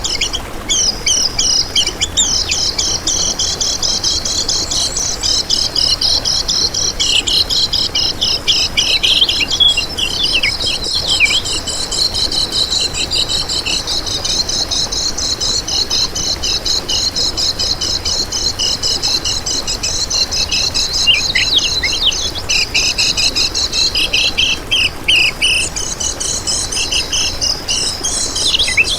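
Kecial kuning birds singing hard: a dense, unbroken stream of rapid high, thin chirps and trills.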